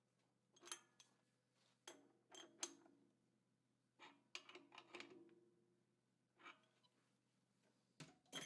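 Faint scattered clicks and light clinks with a brief ring, some in quick runs, over a low steady hum.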